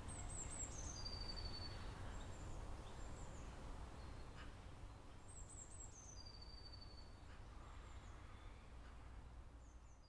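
Faint birdsong over soft outdoor ambience: a phrase of a few quick, falling high chirps ending in a long held whistle, heard twice about five seconds apart.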